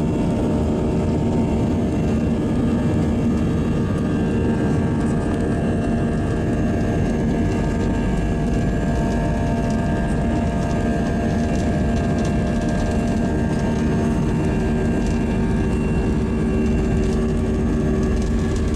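Airbus A320 jet engines running, heard from inside the passenger cabin: a steady loud rumble with several steady whining tones over it, holding even throughout.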